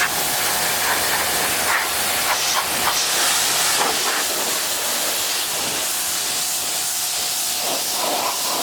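Pressure washer spraying water against a truck's painted body: a steady hiss of spray, with a faint steady whine under it.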